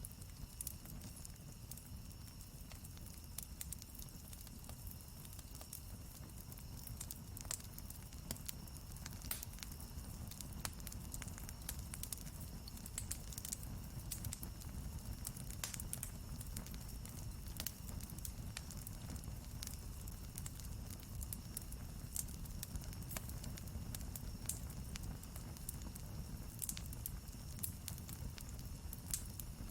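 Wood campfire burning with irregular crackles and pops over a low steady rumble of the flames.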